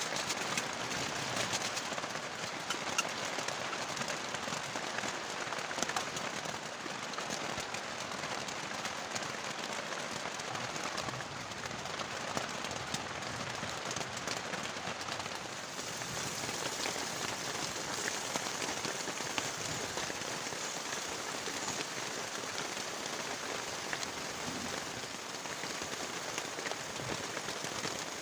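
Heavy rain falling steadily, a dense patter of drops hitting surfaces close by, with no let-up.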